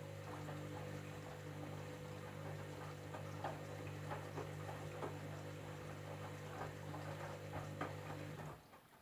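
Candy washing machine running mid-cycle on a jeans programme: a steady motor hum with water sloshing and small knocks from the load. The hum cuts off suddenly near the end.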